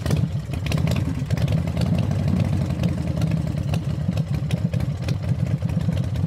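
Car engine idling: a steady low rumble of rapid, even firing pulses that swells in over the first second.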